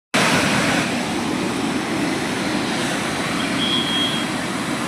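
A river in flood, with fast floodwater rushing steadily and without a break. A brief faint high tone sounds about three and a half seconds in.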